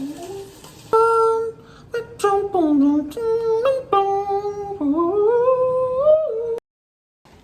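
A high voice humming a melody in held notes with slides between them, with a short gap before each phrase; it cuts off abruptly near the end into dead silence.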